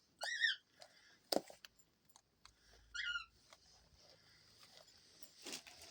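Two short, high bird chirps about three seconds apart, with a sharp click between them and a few fainter clicks.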